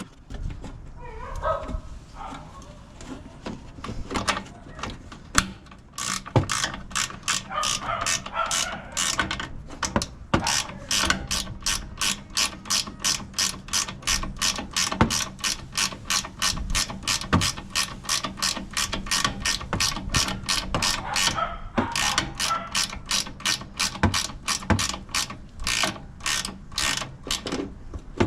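Hand ratchet wrench being worked back and forth, its pawl clicking in an even rhythm of about three to four clicks a second, with one short pause.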